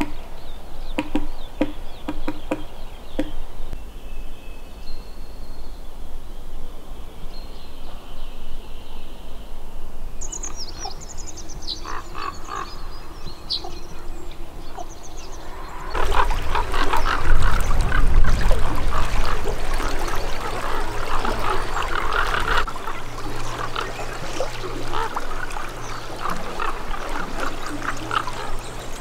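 Birds chirping with scattered clicks, then, about halfway through, an abrupt switch to a dense, louder chorus of many animal calls.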